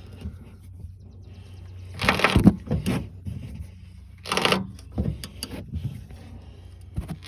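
Half-inch ratchet with a deep socket clicking in two quick bursts, about two seconds in and again past four seconds, with a few lighter clicks between, as the loosened upper nut of a front shock absorber is run off.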